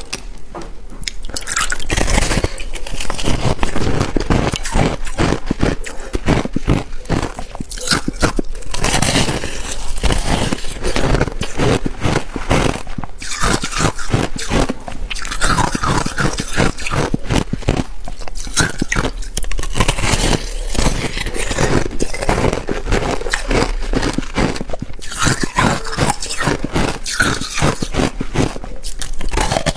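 Freezer frost being bitten and chewed: dense, irregular crunching with some scraping, continuing without a break.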